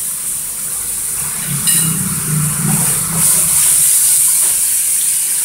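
Shredded chicken frying in a pan of oil and seasoning with a steady high sizzle, louder from about three seconds in as a wooden spatula stirs it.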